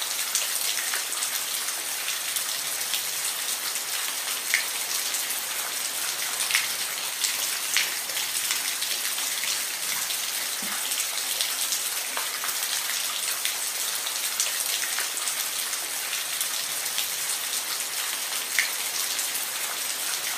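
Steady rain falling, an even hiss with scattered louder drops tapping on a surface.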